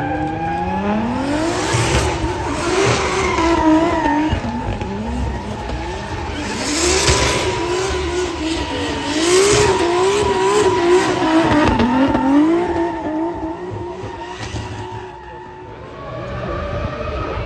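Drift car's engine revving hard, its pitch rising and falling again and again as the throttle is worked, over squealing tyres. The sound fades about fifteen seconds in, and then another engine note comes in.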